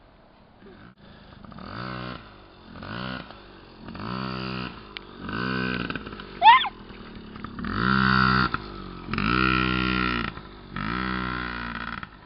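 Yamaha PW50 dirt bike's small two-stroke engine revved in about seven separate bursts, pitch rising and falling with each blip of the throttle and getting louder later on. A short high squeal rises sharply about six seconds in.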